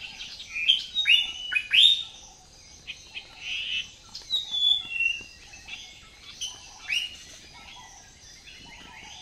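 Several birds chirping and calling, a series of short, quickly rising chirps, loudest in the first two seconds, with more calls through the middle.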